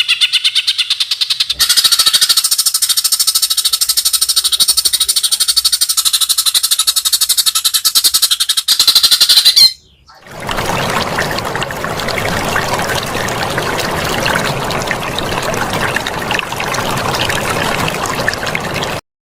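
White-rumped shama (murai batu) giving a fast, rattling 'trotol' chatter of rapidly repeated notes, which stops abruptly about ten seconds in. After a short gap, a steady hiss-like noise follows and cuts off near the end.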